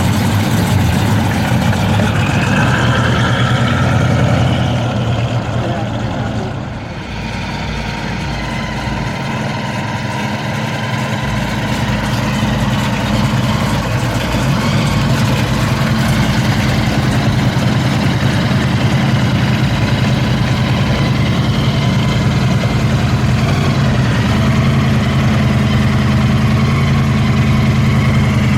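A muscle car's V8 engine idling steadily, with a brief dip in loudness about seven seconds in.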